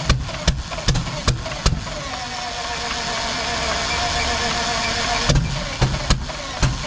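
Rolls-Royce Meteor V12 petrol engine on a start attempt, firing in sharp irregular bangs about two or three a second, then a steady noisy stretch, then more bangs near the end. It is coughing on a few cylinders without running cleanly after being flooded and given more petrol.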